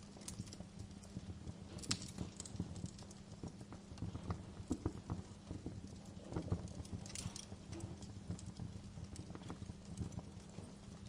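Wood fire in a fireplace crackling and popping: a dense run of irregular sharp snaps over a low steady rumble of the flames, with a few louder pops.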